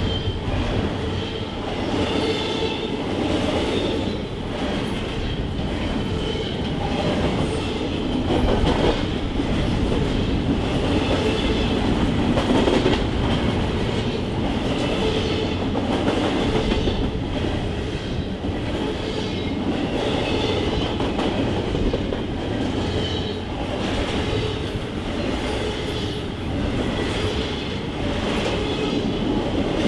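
Freight train cars rolling steadily past, wheels clicking over the rail joints, with a faint high ringing from the wheels on the rails.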